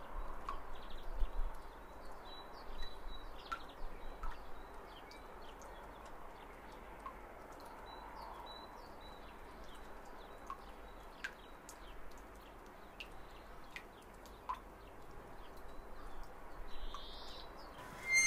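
Faint ambient hiss with scattered short, high bird chirps and a few soft clicks.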